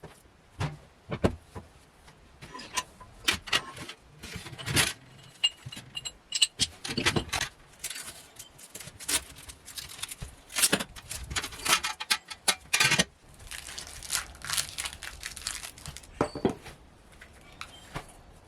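Irregular clicks, taps and rattles of small hard objects being handled and set down, with a few louder knocks around the middle.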